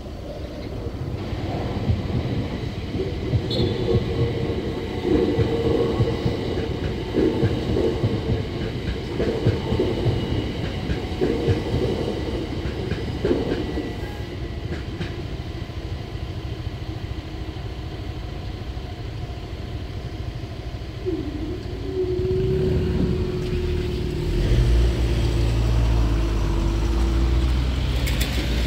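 London Overground electric train running over the level crossing, its wheels clattering in an uneven rhythm, then fading. Near the end a car moves off close by, adding a louder low engine sound.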